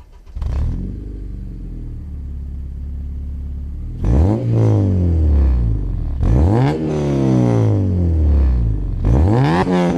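Honda Civic Si's 2.0-litre four-cylinder engine, breathing through an aftermarket intake, Skunk2 header and Invidia Q300 cat-back exhaust, idles steadily. It is then revved three times, each time rising sharply in pitch and falling back more slowly.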